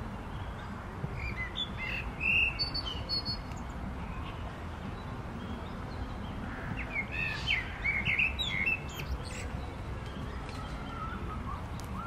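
Birds chirping with short high calls in two bursts, one around two seconds in and a busier one from about six and a half to nine seconds, over a steady low rumble.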